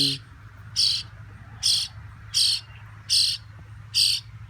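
Baby bird giving hunger begging calls: short, high chirps repeated at an even pace, about one every three-quarters of a second, six in all. The calls mean the nestling is hungry and wants to be fed.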